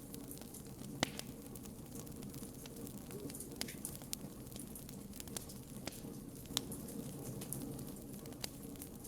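Campfire burning, with scattered sharp pops and crackles, the loudest about a second in, over a steady low rumble and faint hum.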